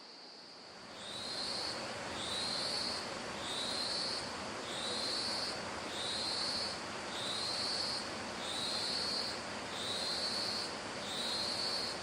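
A calling insect makes a high buzzing phrase that repeats regularly, about once every second and a bit, over a steady high drone. The rhythmic phrases start about a second in.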